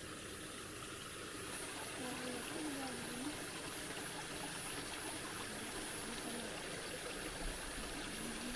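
Outdoor ambience: a steady hiss with a constant high-pitched drone, and faint voices twice.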